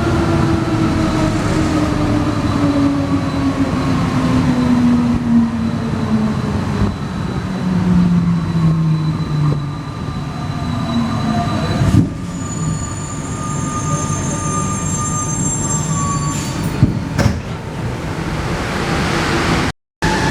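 Alstom NS-93 rubber-tyred metro train slowing down, its traction motor whine falling steadily in pitch for about ten seconds. About twelve seconds in there is a sharp click, followed by thin high squealing tones for a few seconds.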